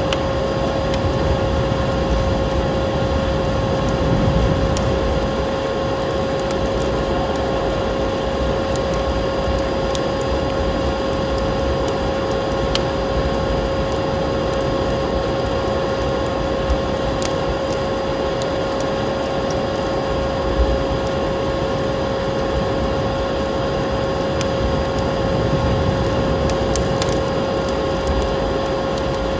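Wood fire in a fireplace with sparse, sharp crackles over a steady rushing noise and a constant hum.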